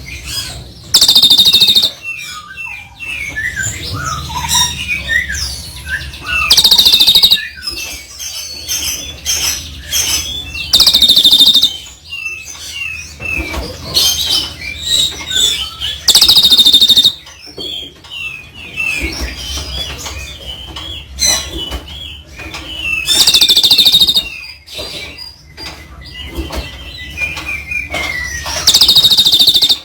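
Songbird calling: six loud, harsh, rasping calls of about a second each, spaced about five seconds apart, with a run of quicker chirps and gliding whistles between them.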